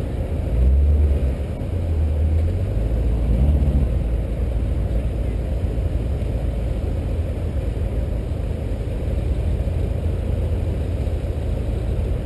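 Corvette C5 Z06's LS6 V8 idling, with two short blips of the throttle in the first few seconds, then settling to a steady idle.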